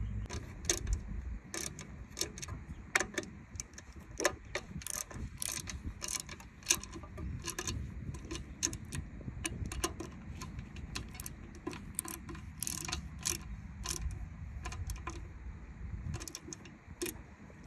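Irregular small clicks and taps of hard parts being handled and fitted, at about one to three a second, with no steady rhythm.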